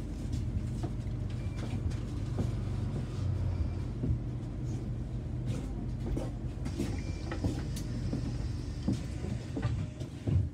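London bus running, heard from on board: a steady low engine and road rumble with scattered rattles and clicks. The rumble eases near the end.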